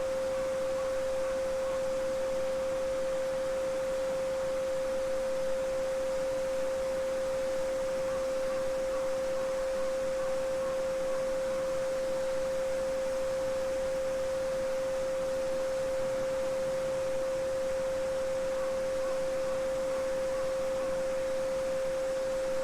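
A steady 528 Hz pure sine tone holds unbroken over the even rushing of a babbling brook.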